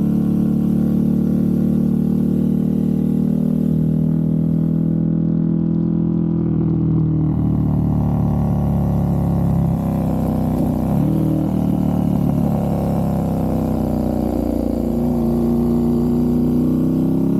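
KTM 1290 Super Duke R's V-twin engine running through a full titanium exhaust, a steady loud note that sinks in pitch past the middle and climbs again near the end.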